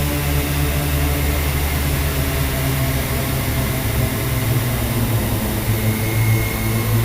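Dark-ambient drone music: a dense, steady low drone built of sustained tones, with a faint high tone coming in near the end.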